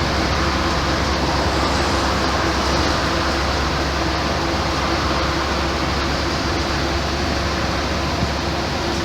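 Mercedes-Benz O-500MA bus's Bluetec 5 diesel engine running steadily, with a constant low hum and no change in pitch or level.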